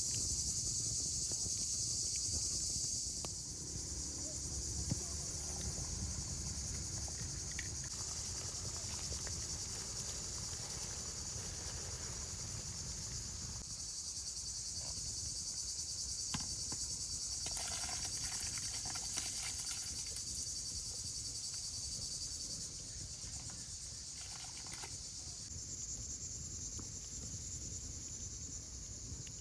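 Insects, likely crickets, chirping in a steady high-pitched chorus, over a low rumble with a few soft knocks.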